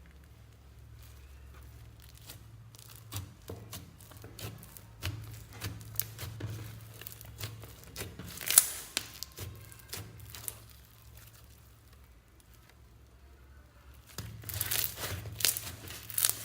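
Slime being worked by hand, making irregular sticky clicks and crackles. There is one sharper snap about halfway through, a lull, then a denser run of crackling near the end.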